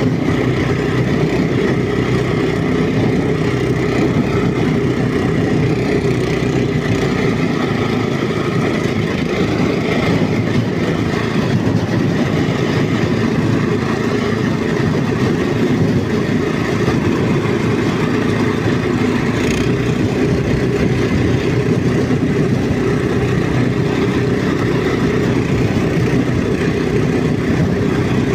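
Walk-behind tractor's single-cylinder engine running steadily under way, its speed holding even.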